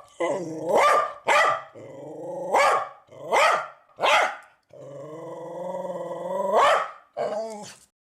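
Dog barking and growling in a run of about seven calls: short barks mixed with a few long drawn-out ones that rise in pitch at the end.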